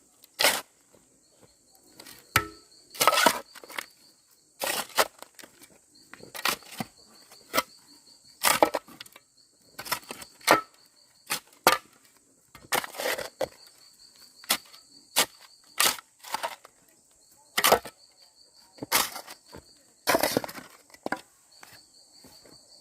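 A series of sharp cracks or crunches, one every second or so, like something dry being snapped or trodden, over a faint, high, pulsing insect trill that comes and goes.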